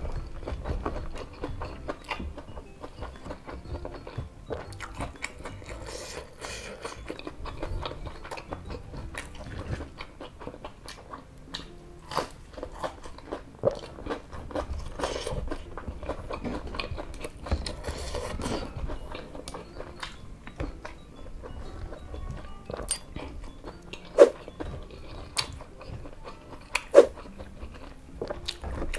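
Close-up chewing and mouth smacking as a mouthful of rice and crispy fried chicken nuggets in chilli sambal is eaten, with many small irregular clicks and some crunching. Two sharp, louder clicks stand out near the end.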